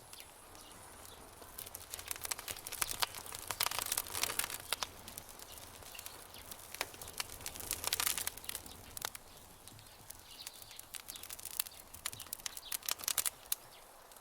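Campfire crackling: irregular sharp pops and snaps from burning wood, bunched in several quick clusters over a faint steady background.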